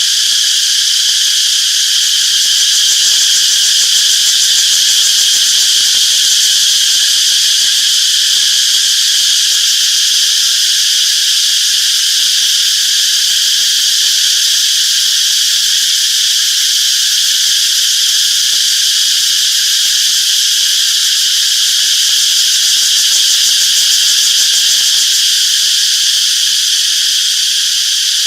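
Chorus of cicadas singing in a continuous, steady high-pitched drone that never pauses.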